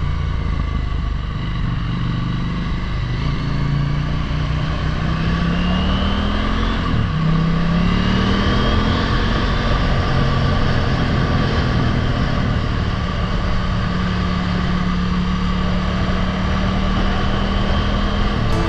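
Motorcycle engine accelerating, its pitch rising twice with a gear change about seven seconds in, then holding steady at cruising speed over a steady rushing noise.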